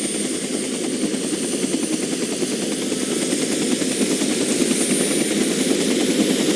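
Aircraft in flight: a steady engine drone with a fast, even chop.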